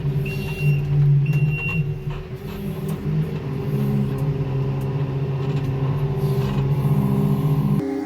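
Diesel engine of a farm vehicle running steadily, with two high electronic beeps about a second apart in the first two seconds. The engine sound cuts off suddenly just before the end.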